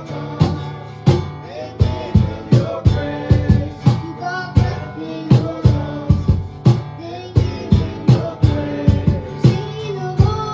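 Worship band music: guitar over a steady drum beat, with singing.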